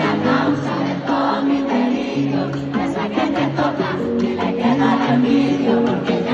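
Live concert music with a large crowd singing along, many voices holding the sung notes over the backing track.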